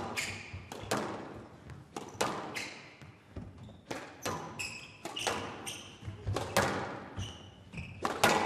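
Squash rally: the ball cracks off rackets and walls about once a second, each hit echoing, with short high shoe squeaks on the court floor between hits.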